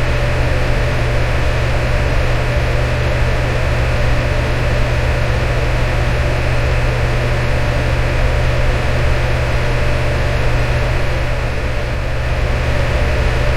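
Electric fan running steadily: a constant whoosh of air with a low motor hum and a faint steady tone above it.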